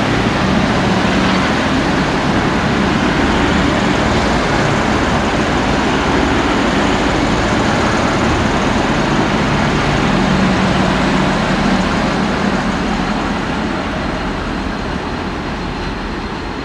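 Diesel train running past with a steady engine hum, fading over the last few seconds.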